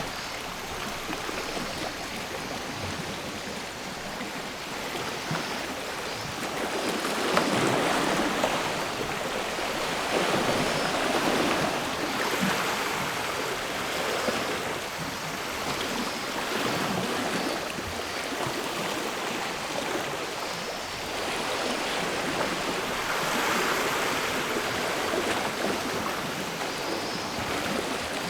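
Sea waves washing onto the shore, swelling and falling back every few seconds.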